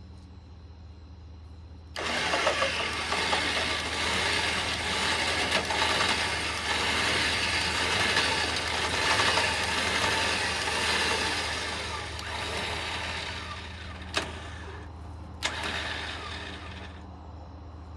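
A vehicle engine starts running loudly and suddenly about two seconds in and keeps going for some fifteen seconds, fading near the end, over a steady low hum. Two sharp clicks sound near the end.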